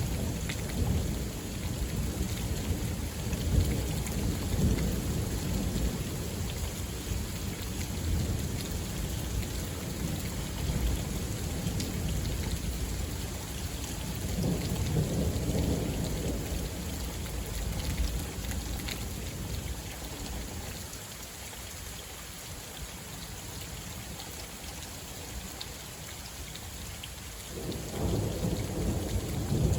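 Thunderstorm: steady rain with long, low rolls of thunder. The rumbling swells again about halfway through, fades to mostly rain for several seconds, then a new peal of thunder starts suddenly near the end.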